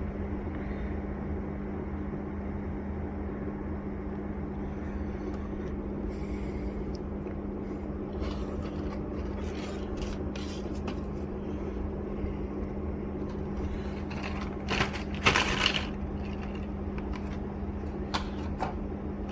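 Plastic packaging and small plastic parts being handled: scattered clicks, scrapes and rustles, with a louder cluster of rustling about three-quarters of the way through, over a steady low hum.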